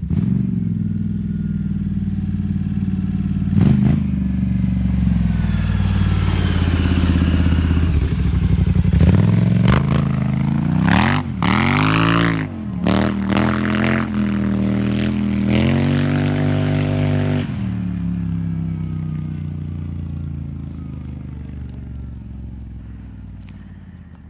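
2015 Polaris Scrambler ATV engine through a custom-made slip-on exhaust. It idles, is blipped once, then revved repeatedly with quick rises and falls and held at higher revs. Near the end it eases off, fading steadily.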